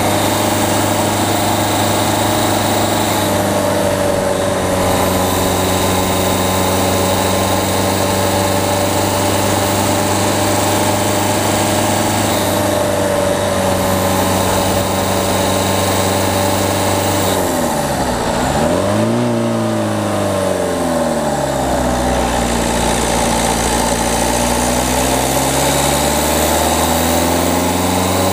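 Peugeot 208's diesel engine pulling at steady revs, heard through a camera mounted on the car's front. About two-thirds of the way through, the revs drop sharply and climb back, then the engine pulls at lower revs and rises again near the end.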